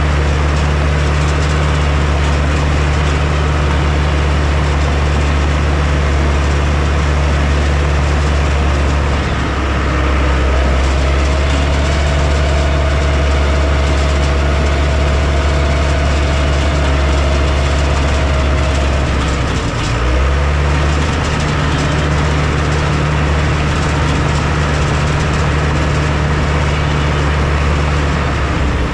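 Heavy construction machine's engine running steadily, its note shifting about a third of the way in and again about two thirds in, with a faint whine in between.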